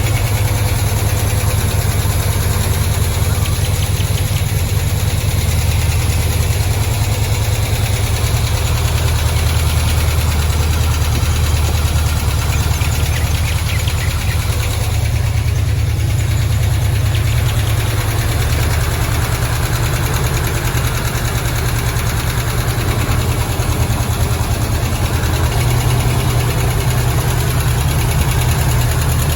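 Chevrolet 350 small-block V8 in a 1957 Bel Air idling steadily, a loud, even low rumble.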